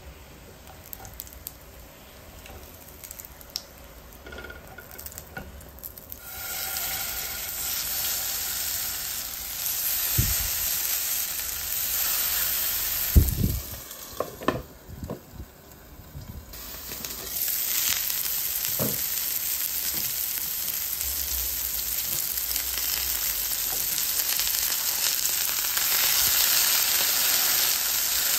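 Beef burger patties frying in oil in a nonstick frying pan: a steady sizzle that starts about six seconds in. A few sharp knocks against the pan come in the middle, and the sizzle then returns louder.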